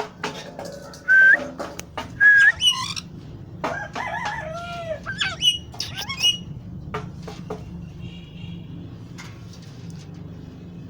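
Pet parrot giving a string of short whistled calls that slide up and down in pitch, bunched over the first six seconds or so, then falling quiet.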